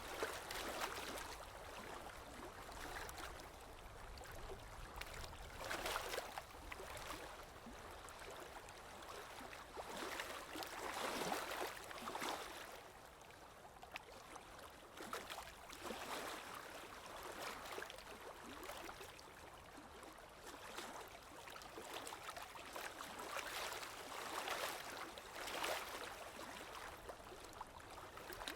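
Sea waves washing onto a shore, a steady hiss of water that swells and ebbs in soft surges every few seconds.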